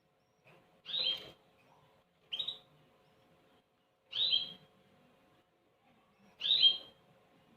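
Canary chicks' begging calls: four short bursts of high chirping, about every one and a half to two seconds, the last one the loudest.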